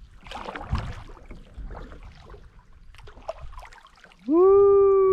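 Kayak paddling: soft splashes and water dripping off the paddle blade. A little after four seconds in, a person lets out a long, loud "woo!" that rises and then slowly sags in pitch.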